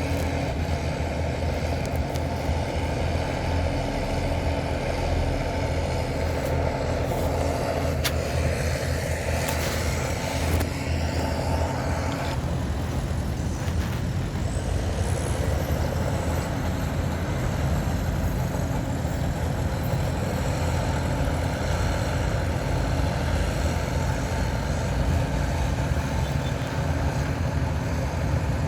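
Heavy diesel engines of earthmoving machinery (bulldozer and dump trucks) running steadily under load, with a couple of sharp clanks about eight and ten seconds in.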